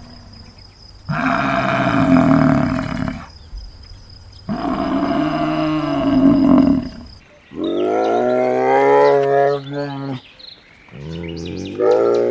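Animal calls: two long calls, one about a second in and one about four and a half seconds in. Then, after a cut, several drawn-out calls with a clear pitch.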